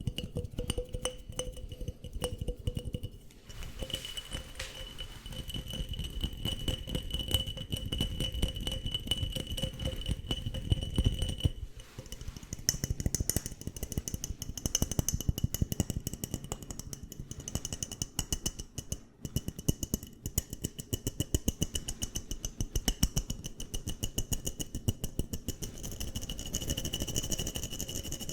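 Fast ASMR tapping and scratching on objects close to the microphone, many quick strokes a second. The sound changes character a few times, about three seconds in, near the middle and near the end, as the object or the pattern changes.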